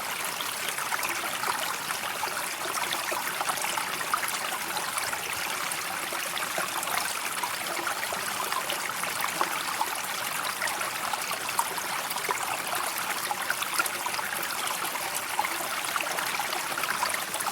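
River water flowing and trickling steadily, a continuous babble with many small splashes.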